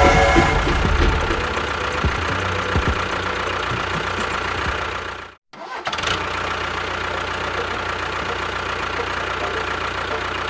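A mini DIY construction vehicle's motor running steadily, with a short rising whine at the start. About five and a half seconds in, the sound cuts out completely for a moment and then carries on as before.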